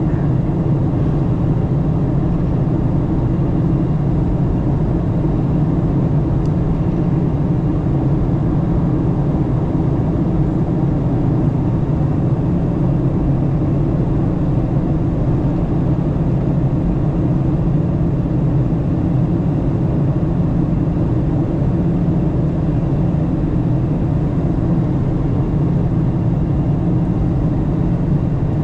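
Steady cabin noise inside a Boeing 737-900 airliner on approach: the drone of its CFM56-7B turbofan engines mixed with airflow over the fuselage, strongest in a low hum, unchanging throughout.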